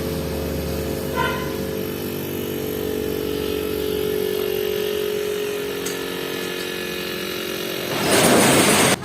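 Old refrigerator compressor running with a steady motor hum, on test with a pressure gauge. Near the end comes a loud rushing hiss lasting about a second.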